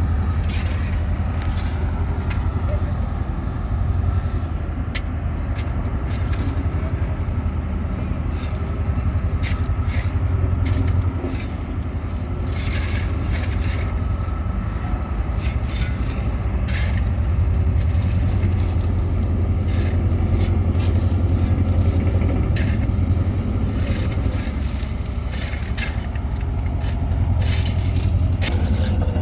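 Caterpillar wheel loader's diesel engine running steadily under varying load, with scattered clanks and scraping or crunching sounds throughout.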